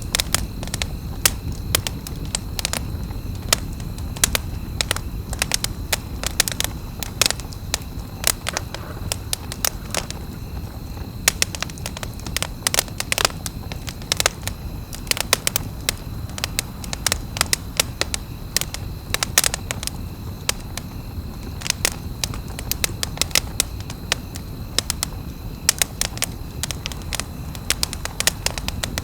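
Wood campfire crackling: a steady stream of irregular sharp pops and snaps over the low, even rumble of the burning fire.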